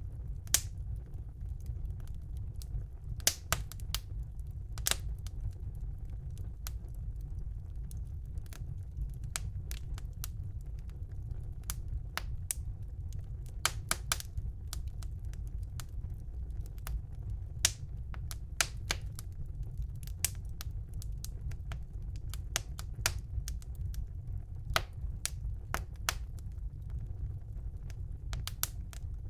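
Wood fire burning in a home fireplace: a steady low rumble of the flames with sharp, irregular crackles and pops of burning logs.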